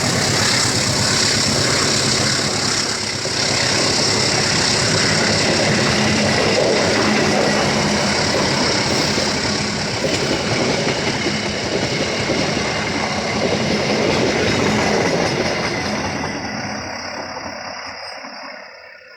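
A train passing close by, its wheels running on the rails with a clickety-clack, loud and steady, then fading away over the last few seconds.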